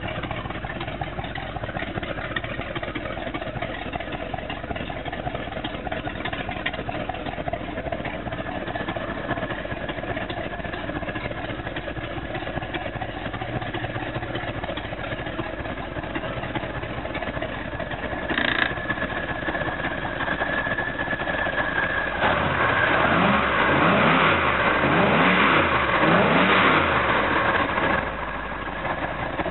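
The 502 big-block Chevrolet V8 of a Cobalt boat runs steadily, then is revved up and down several times near the end.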